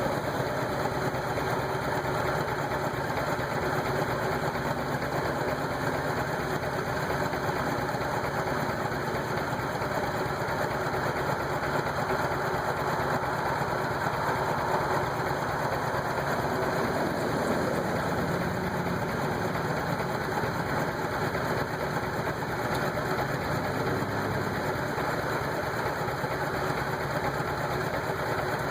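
Porsche 944's four-cylinder engine running with a rough idle. The owner has checked that the air hoses are tight and suspects the MAF.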